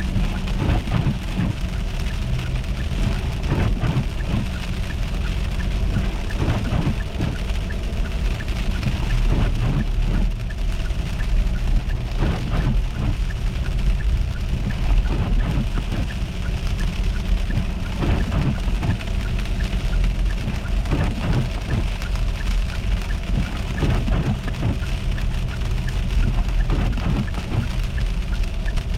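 Car driving on an icy, slushy road, heard from inside the cabin: a steady low road rumble under the hiss of tyres, with many small irregular ticks on top.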